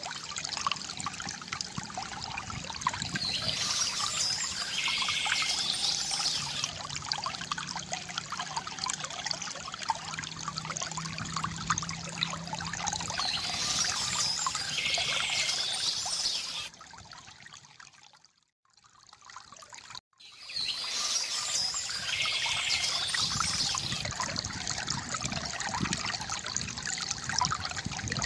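Water trickling and pouring from a bamboo fountain, with birds chirping in three separate bouts. About two-thirds of the way through, the sound falls away nearly to silence for about three seconds, then resumes.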